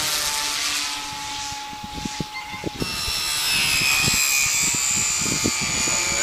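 Brushless electric motor and propeller of a balsa RC model Hawker Hurricane running, a high-pitched whine that comes in strongly about three seconds in. Wind buffets the microphone throughout.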